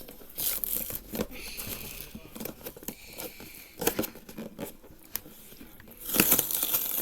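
Cardboard Lego set box being pried and torn open by hand: scattered clicks, scrapes and crinkling of card, with a louder tearing rush near the end.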